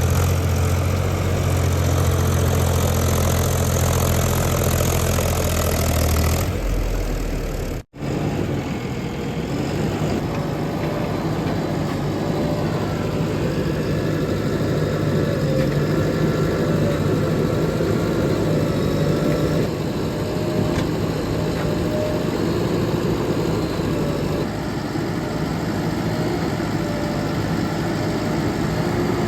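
Heavy diesel engines running steadily, as a backhoe loader, tractors and tipper trucks work. The sound changes abruptly several times, with a brief dropout to silence about 8 seconds in.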